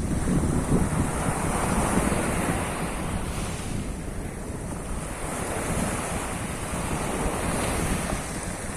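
Sea of Azov surf: waves breaking and washing ashore in a continuous rush, easing about four seconds in and building again near the end, with wind buffeting the microphone.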